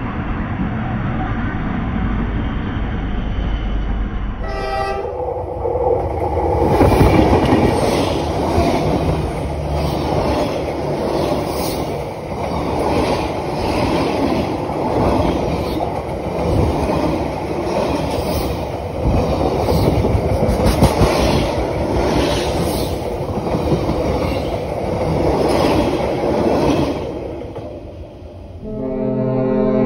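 Train passing close by: a brief horn sound about four and a half seconds in, then a long stretch of wheels clattering over the rail joints with the rumble of the cars rolling past, which drops away near the end as the train clears. A steady pitched sound comes in just before the end.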